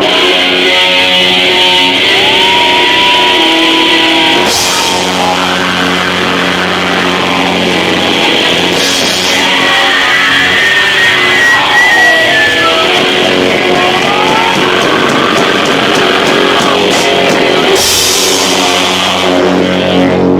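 Live rock band playing loud: distorted electric guitar with sliding notes over a drum kit, overloading the camcorder's microphone.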